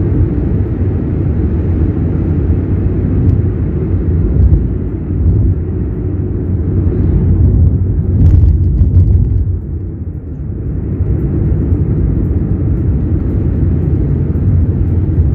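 Strong wind buffeting the microphone: a loud, gusting low rumble that eases briefly about two-thirds of the way through.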